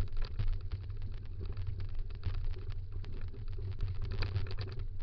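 Dryland kick scooter rolling fast over a rough dirt trail, with a dense, irregular rattling and crunching from the wheels and frame over a low wind rumble on the microphone.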